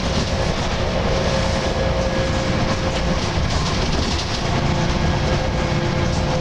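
Volvo B10BLE single-deck bus on the move, its diesel engine and drivetrain running with a steady groaning tone held through the noise.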